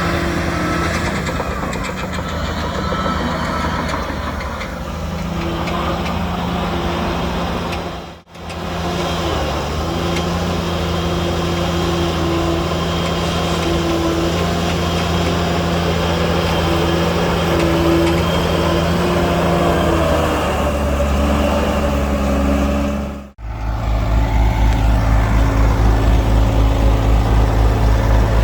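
Heavy diesel engines of earthmoving machinery running steadily. The sound cuts out briefly twice, about 8 and 23 seconds in, and after the second break it comes back as a louder, deeper engine with an even pulse.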